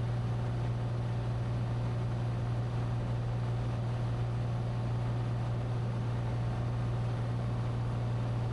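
Cessna 182T's Lycoming IO-540 six-cylinder engine and propeller droning steadily in cruise flight: a constant low hum that holds the same pitch and level throughout.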